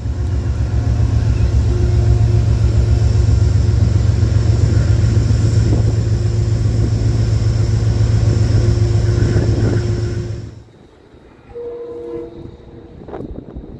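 Metro-North train running past close by: a loud, steady, deep rumble that cuts off suddenly about ten and a half seconds in, leaving fainter tones and clicks.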